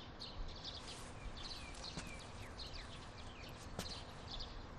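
Small birds chirping in the background: many short, high calls, some falling in pitch, over faint steady ambience.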